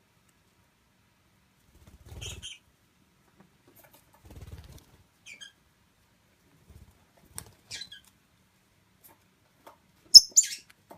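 Pet parakeets moving about on a surface: two short runs of low pattering, a few brief faint high chirps, and a sharp, much louder high-pitched squeak just after ten seconds in.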